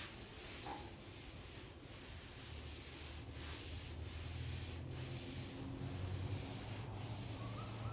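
A wet towel being rubbed back and forth over freshly sanded car body panels in steady, repeated wiping strokes. A low hum builds underneath from a few seconds in.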